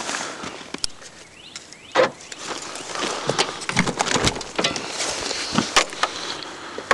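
Footsteps crunching through deep snow: an irregular run of crunches and scrapes with a few sharp knocks, the loudest about two seconds in and near six seconds.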